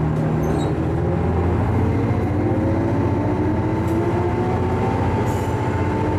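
Diesel railcar running along the line, its engine and wheel rumble steady while its pitch rises slowly as the train gathers speed.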